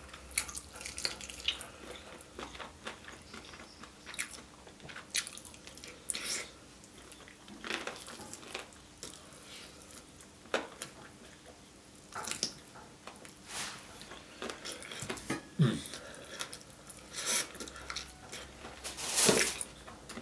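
Close-miked chewing and biting of saucy yangnyeom Korean fried chicken: irregular wet mouth clicks and smacks with the odd crunch of the still-crunchy coating.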